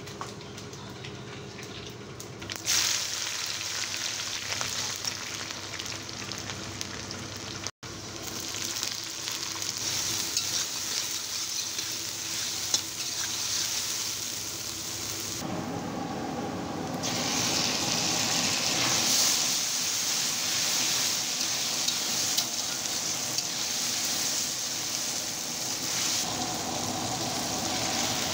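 Chopped onions and dried red chillies frying in hot oil in a steel kadhai: a steady sizzle that jumps up suddenly about three seconds in. A metal spatula stirs and scrapes them around the pan.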